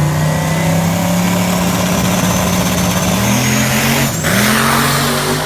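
Camaro SS 1LE's 6.2-litre V8 running through a straight-piped exhaust with X-pipe, resonator and muffler delete: a loud, steady engine note that rises a little, dips sharply for a moment about four seconds in, then climbs again.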